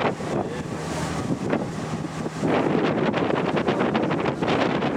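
Wind buffeting the microphone aboard a Lake Ashi sightseeing boat, over the rush of water and the boat's running noise. A low steady hum drops out about two seconds in, and the wind gets louder and gustier from about halfway.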